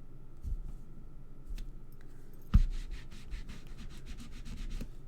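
A rubber stamp on its block knocks once against the work surface about halfway through, then is rubbed in quick back-and-forth strokes against a pad, about six strokes a second, for roughly two seconds.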